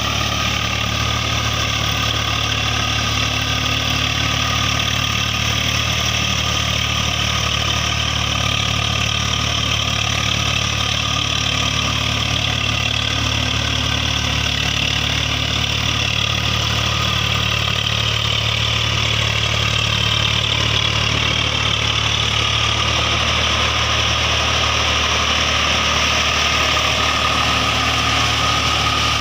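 Tractor diesel engine running steadily at an even speed, with a faint whine drifting slowly up and down in pitch over its second half.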